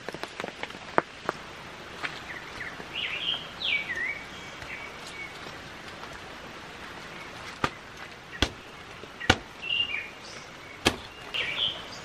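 Birds singing in short chirped phrases, a few quick notes at a time, three times, over a steady hiss of rain, with scattered sharp taps.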